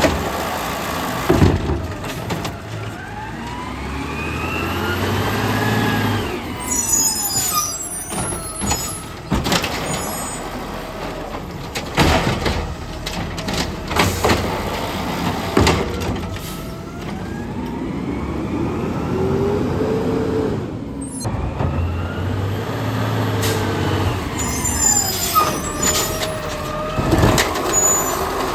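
A garbage truck empties curbside carts twice in a row. Each time the engine revs to drive the hydraulics, with a whine that rises and then falls as the lift goes up and comes back down, and the cart knocks and clatters as it is shaken out. There is a burst of hiss and rattle at the top of each lift.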